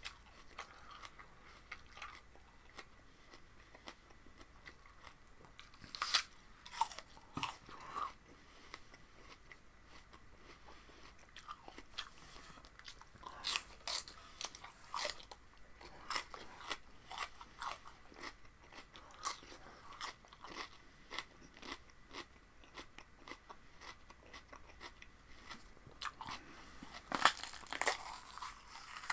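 A person biting and chewing raw vegetables, in irregular crunches with louder clusters about six seconds in, around a quarter of the way through, and near the end.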